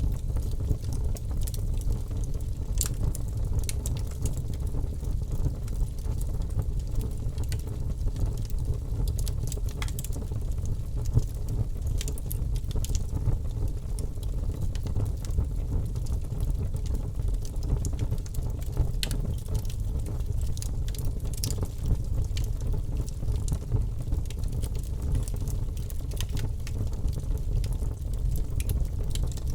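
Wood fire crackling in a fireplace: scattered sharp pops and crackles at irregular intervals over a steady low rumble of the flames.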